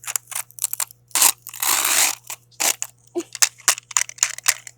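A plastic toy figure burning and melting inside a running microwave oven: a string of sharp cracks and pops of uneven strength with bursts of hissing between them, over the oven's steady low hum.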